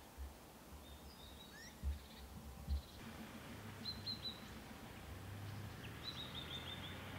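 Birds calling faintly: scattered thin, high chirps, then a quick run of about six short notes near the end, over a steady outdoor hiss. There are two low thumps about two seconds in.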